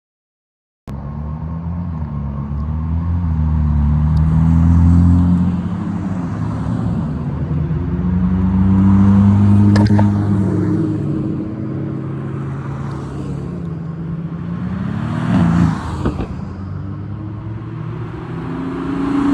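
Car engine revving hard, its pitch rising and falling through several swells, with a couple of sharp cracks along the way.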